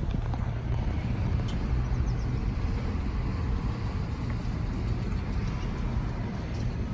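Steady low rumble of road traffic outdoors, with a few faint high ticks.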